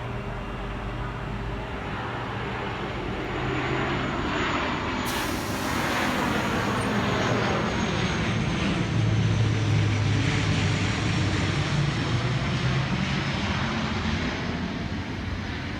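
Sydney Trains Tangara electric train moving along the platform, its motors and wheels giving a steady low hum and rumble that grows louder about five seconds in.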